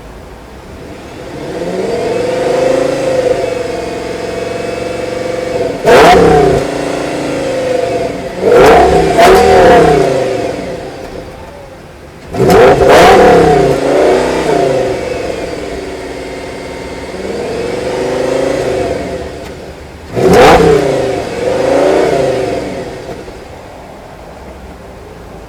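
Audi S8's 5.2-litre V10 revved in a series of throttle blips, some sharp and quick, some slower swells, each rising in pitch and falling back to idle.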